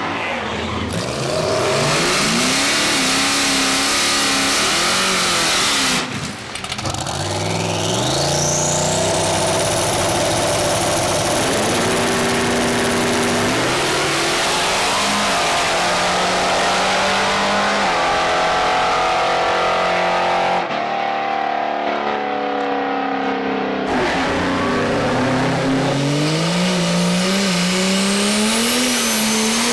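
Drag cars making passes at full throttle, their engines climbing in pitch through each gear and dropping back at the shifts, over several back-to-back runs.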